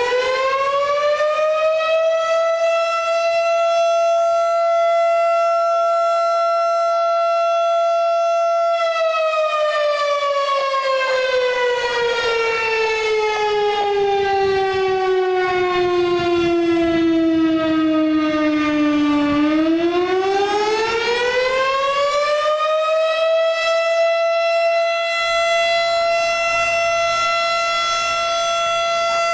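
Federal Signal STH10 firehouse siren wailing to call out volunteer firefighters. It winds up to a steady high pitch and holds it, slowly winds down over about ten seconds, then winds back up about two-thirds of the way through and holds again.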